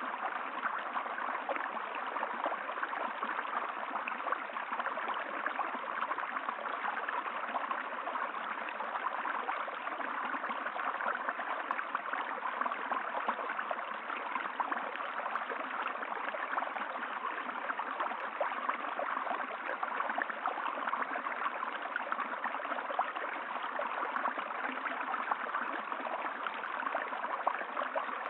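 Water flowing in a stream, a steady rushing that never pauses or changes.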